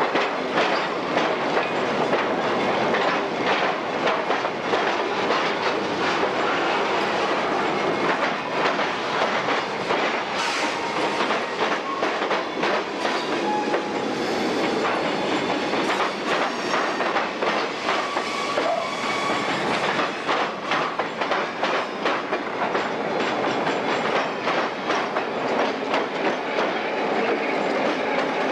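Freight train's boxcars rolling past at close range, steel wheels clicking and clattering over the rail joints in a steady run of irregular clicks.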